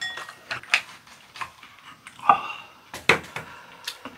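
Close-miked eating: chewing and wet mouth sounds with irregular sharp clicks and smacks. A louder short mouth sound comes a little over two seconds in.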